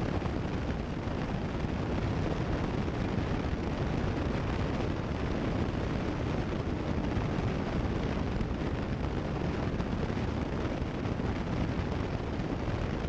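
Steady cabin noise of a Cessna 172 Skyhawk in flight, the engine and propeller drone heard as an even rushing hiss through the headset intercom feed.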